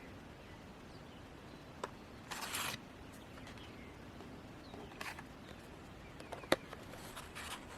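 Quiet background hiss with a few faint clicks and a short soft rustle about two and a half seconds in.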